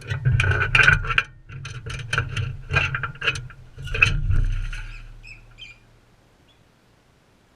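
Crimson rosella at the feeder close to the microphone: a rapid run of clicks and scrapes for about five seconds, then it goes quiet.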